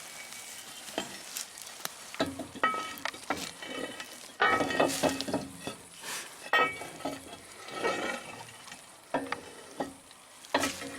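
Small metal parts being handled: irregular clinks and knocks, some with a short ringing tone, over a crackling rustle. The busiest stretch comes about halfway through.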